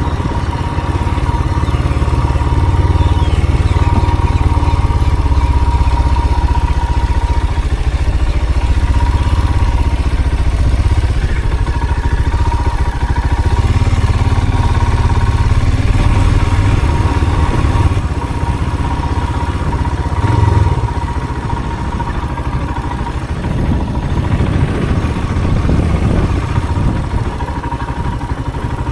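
A motor vehicle's engine running steadily while underway, with a dense low rumble and a thin, steady whine above it. The rumble dips slightly about two-thirds of the way through.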